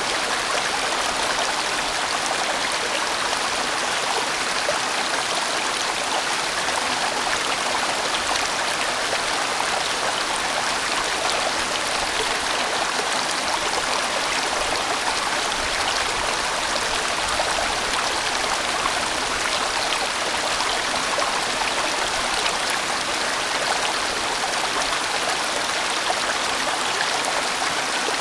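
A sizeable mountain stream flowing and splashing over rocks in a steady, even rush.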